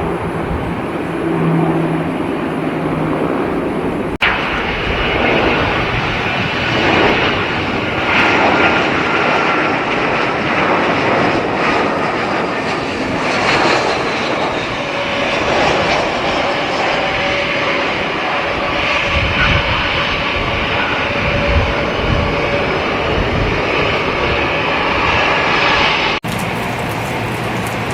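Airliner engines running loud as a plane passes, a dense rushing noise with a faint falling whine near the middle. The sound changes abruptly about four seconds in and again near the end.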